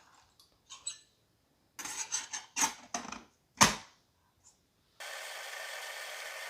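Clicks and knocks of a glass electric tea kettle and its parts being handled and set in place, with one loud knock about three and a half seconds in. From about five seconds in, a steady hiss with a faint hum starts abruptly: the kettle switched on to auto and heating its water.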